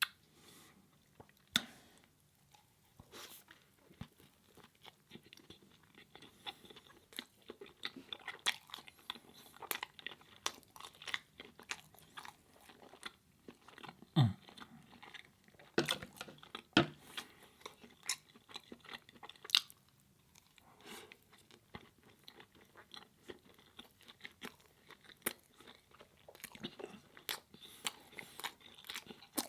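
Close-miked eating sounds: a person chewing and biting food with irregular wet clicks and crunches, a few of them louder.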